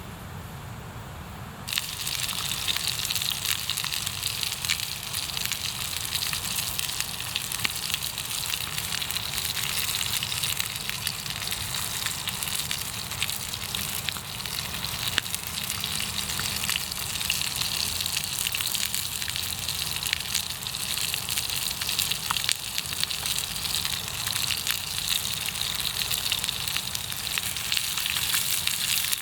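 Sizzling and crackling at a campfire: a dense hiss of many small pops that starts abruptly about two seconds in and carries on steadily.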